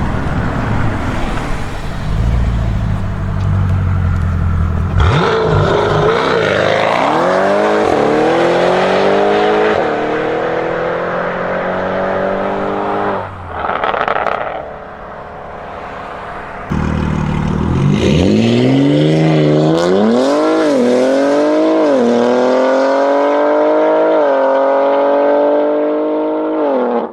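High-performance car engines accelerating hard. A low rumble gives way to revs climbing steadily, then the sound cuts off abruptly. A second run repeats the climb, its pitch dropping and rising again several times, as at gear changes.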